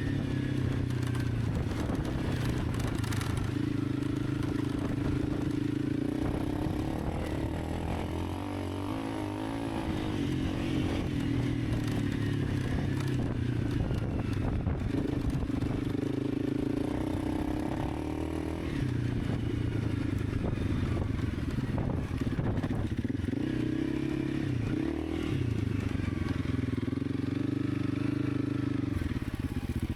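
Honda CRF300 Rally's single-cylinder engine running while riding, its note easing off and picking up again a few times as the throttle is rolled off and back on.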